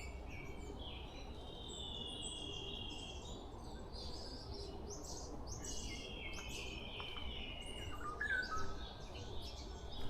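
Several wild forest birds singing at once: repeated trilled phrases, short high chirps and a brief falling note about eight seconds in, over a steady low background hiss.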